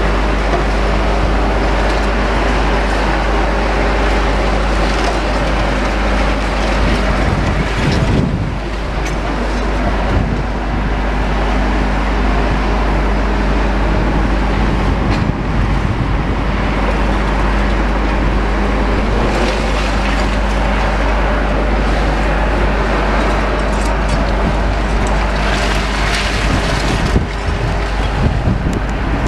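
Heavy demolition machinery at work: excavator diesel engines running steadily under load, a loud constant din with a steady engine drone that drops out for a couple of seconds about eight seconds in.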